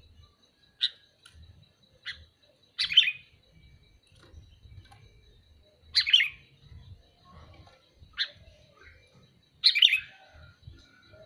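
Sooty-headed bulbul (kutilang) calling: about six short chirping calls a second or two apart, the loudest about three, six and ten seconds in. A faint steady high tone lies underneath.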